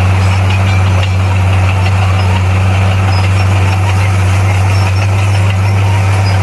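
Bulldozer's diesel engine running steadily, a deep, even hum with no change in speed.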